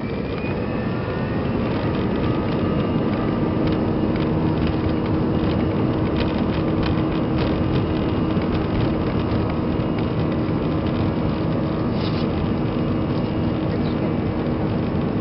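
Airbus A320-200 jet engines heard from inside the passenger cabin, spooling up to high thrust for the takeoff roll. The noise grows louder over the first two seconds, then holds as a steady rumble and hum with light rattling in the cabin.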